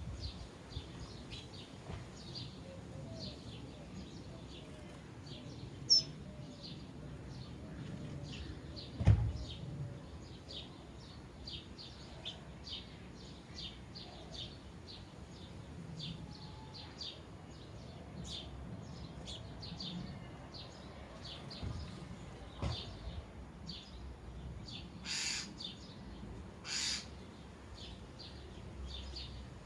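Sparrows chirping continually in quick short chirps, with two louder, harsher calls near the end. Two sharp knocks stand out, about six and nine seconds in.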